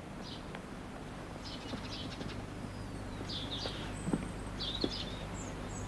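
Birds chirping now and then over a steady low hum, with two soft knocks about four and five seconds in.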